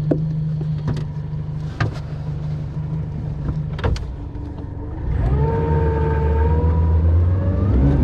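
Boat motor running with a steady low hum while a few knocks sound on the aluminum hull; about five seconds in the motor is throttled up, its pitch rising slowly, as it strains to push the boat off a stump it is stuck on.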